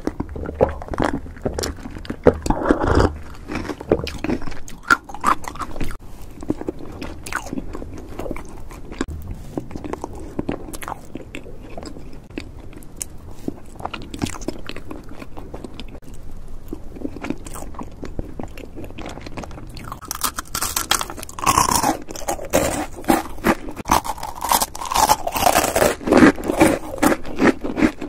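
Close-miked eating sounds: soft chewing and clicking mouth sounds, then from about twenty seconds in louder, denser crunching of a crisp snack such as a sandwich cookie.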